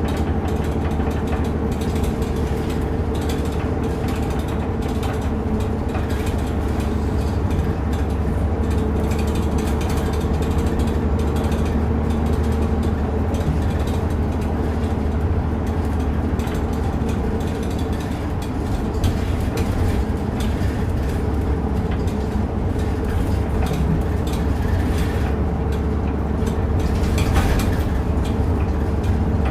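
Route bus heard from inside the cabin while running: a steady low engine drone with the rattle and creak of the bus's body and fittings.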